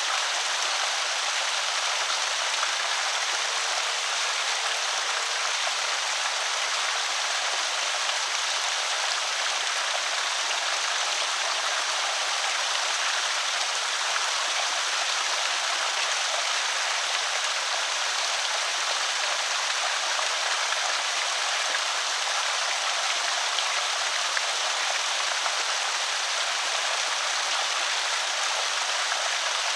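Water pouring steadily over a small creek spillway, a continuous even rushing and splashing.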